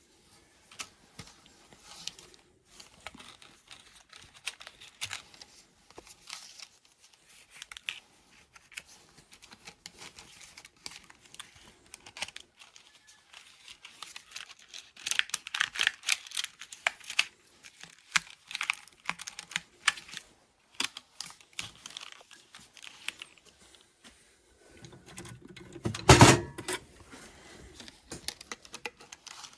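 Irregular small clicks, taps and scrapes of hand work on an axe in a small garage, busiest about halfway through, with one heavier knock about 26 seconds in.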